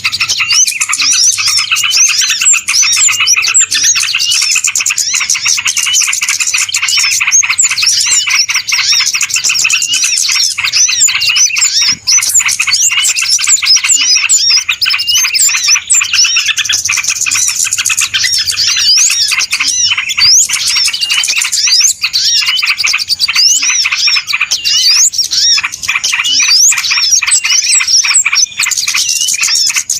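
Many small birds chirping at once in a dense, unbroken chorus of quick, high, overlapping calls: a bird-lure (pikat) recording made to draw small birds in.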